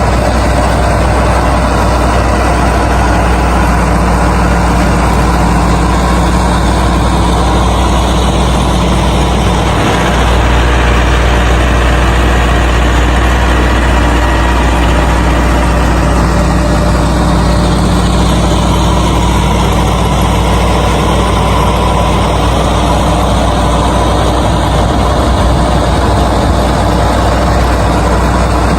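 An engine running steadily, like an idling tractor, with a strong low drone; its sound shifts slightly about ten seconds in and again about six seconds later.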